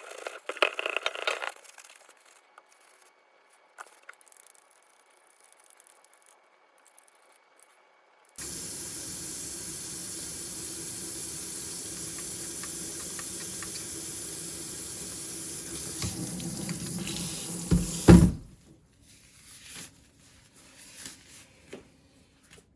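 Water from a tap running steadily into a sink for about ten seconds, then stopping with one loud knock. Light clatter is heard near the start and after it.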